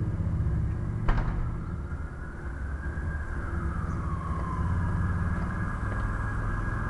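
A steady low engine rumble, with a sharp click about a second in.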